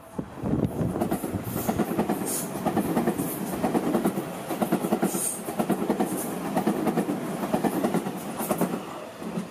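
Seibu Ikebukuro Line electric commuter train passing over a level crossing, its wheels clattering over the rail joints in a steady clickety-clack that thins out near the end.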